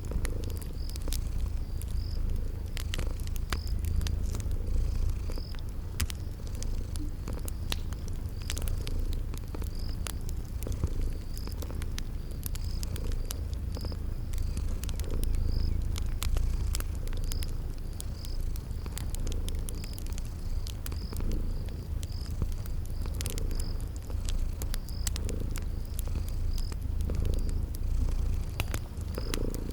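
A cat purring steadily in a low rumble, over the scattered sharp pops of a crackling wood fire and a cricket chirping at an even pace, about once a second.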